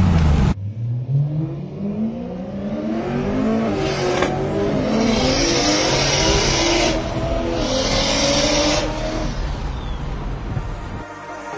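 BMW M3 E92's supercharged 4.0-litre V8 at full throttle, heard from inside the cabin. The revs rise through the gears, with upshifts about four and seven seconds in, then ease off near the end.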